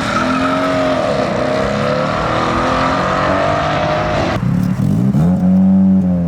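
Car engines accelerating hard, their pitch rising and falling through the gears. About four seconds in the sound changes abruptly, and another engine revs up and holds a steady high note.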